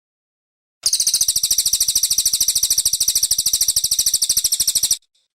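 Brown cililin songbird singing one long, very high, rapid trill of about a dozen notes a second, lasting about four seconds. It starts just under a second in and cuts off sharply.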